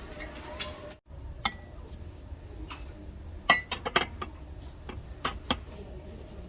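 Dishes clinking: light knocks of hard tableware, several in quick succession about three and a half seconds in, a few with a short ring.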